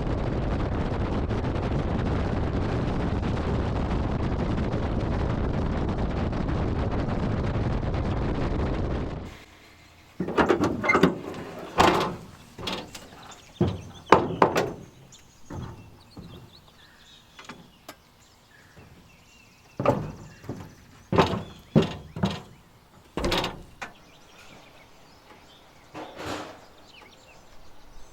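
Workshop sounds: a steady rushing noise for about nine seconds that cuts off abruptly, then an irregular string of sharp knocks and clanks, some ringing briefly.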